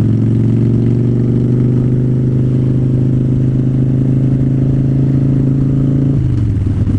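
2009 Harley-Davidson Fat Bob's air-cooled V-twin running under steady throttle, its pitch creeping slowly up as the bike gathers speed. About six seconds in the rider rolls off the throttle and the engine note drops.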